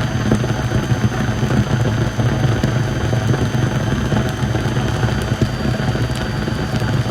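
Vacuum cleaner running steadily: a constant motor hum and high whine with a few faint ticks.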